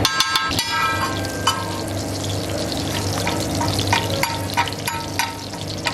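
Desi ghee sizzling and crackling on a hot iron tawa as a mutton chaap patty fries in it: a steady hiss with many sharp pops. A metal spatula clinks against the griddle with short ringing notes, most of all in the first second and a half.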